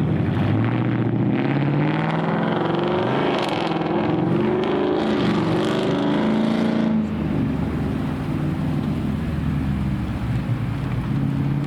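Several car engines running at once, their pitches rising and falling over one another as they rev and pull away, then settling to a steadier, slightly quieter run about seven seconds in.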